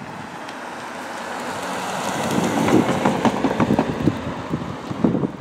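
NJ Transit commuter train's wheels clattering over the rail joints. The clatter swells to its loudest about three seconds in, then fades as the train pulls away.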